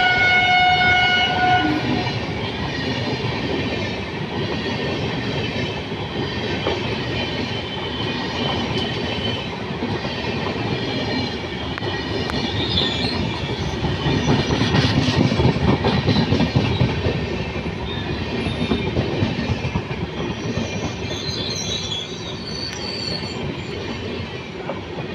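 Train horn sounding and cutting off about two seconds in, then the steady rumble and clatter of a passing train's wheels on the track, loudest around the middle, with faint high wheel squeal near the end.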